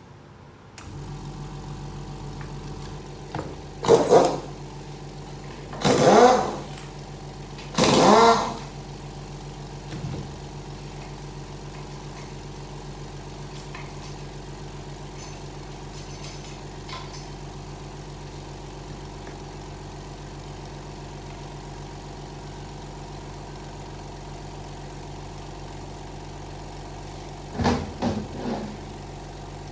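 A steady motor hum starts about a second in and keeps running. Over it come three loud bursts of about a second each, a weaker one after them, and a short cluster of bursts near the end.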